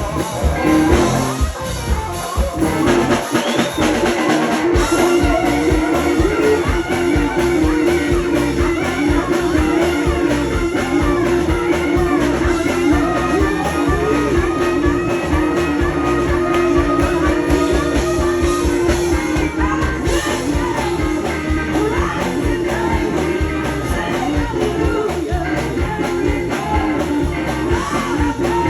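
Live band playing a sacred steel gospel jam: steel guitar over drums, with singing.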